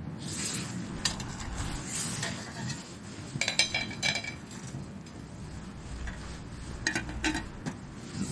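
Clatter and light clinks of tableware being handled, with a ringing clink a little over three seconds in and more clinks about seven seconds in.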